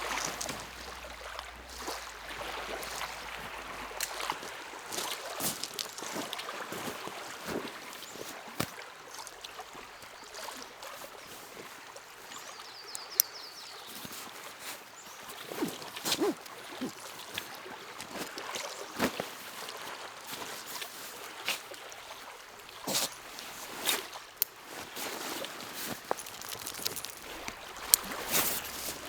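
Small lake waves lapping and splashing at the shore, with irregular little sharp splashes over a steady wash of water.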